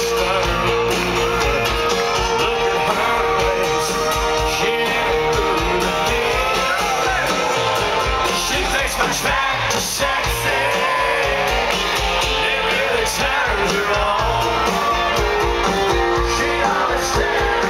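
Live country band playing on a concert stage, with guitars, a steady beat and a lead singer.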